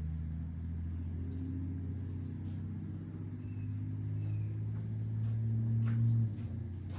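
A motor vehicle engine idling steadily with a low hum, getting a little louder, then dropping and settling about six seconds in; a few faint light clicks sound over it.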